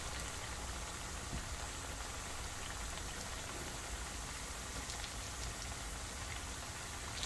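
Green plantain pieces sizzling steadily in hot oil in a frying pan, during the first, lower-heat fry for tostones.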